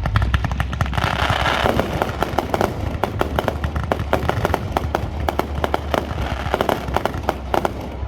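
Fireworks going off in a rapid string of sharp pops and crackles, several a second, with a denser crackling burst about a second in, over a low rumble.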